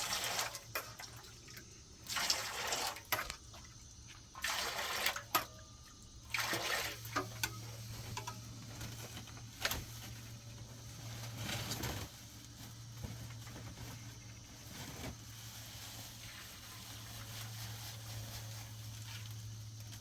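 Water splashing and pouring in several short bursts over the first twelve seconds, with a steady low hum underneath.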